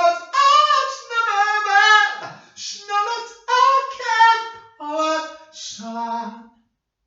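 A single high voice singing unaccompanied, in held, gliding notes across several short phrases. It ends on a lower note about six and a half seconds in.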